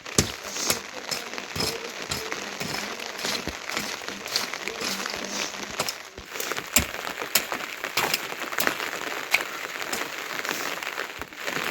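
Heavy rain falling, with large drops striking a nearby surface as scattered sharp taps over a steady hiss.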